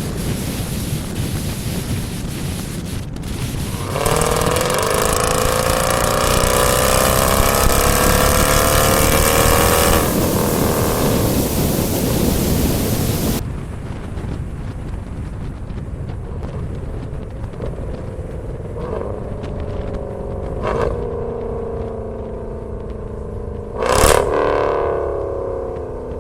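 A Dodge V8 breathing through a Corsa Xtreme cat-back exhaust. About four seconds in it accelerates hard, its pitch rising for several seconds over loud rushing noise that cuts off suddenly. It then runs more quietly, with a sharp loud blip near the end followed by the revs falling away.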